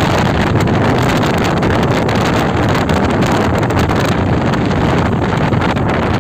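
Loud, steady wind rushing over the microphone of a speedboat under way, over the boat's motor and the rush of the hull on the water.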